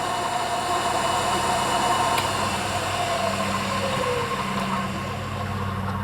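Milling machine running steadily, a constant hum with a wavering mid-pitched whine.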